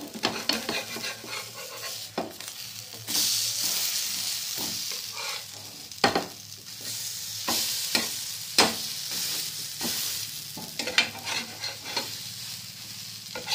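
Batter-coated flower fritters sizzling in oil in a nonstick pan, the sizzle getting louder about three seconds in. A metal spatula scrapes and knocks against the pan several times as the fritters are turned.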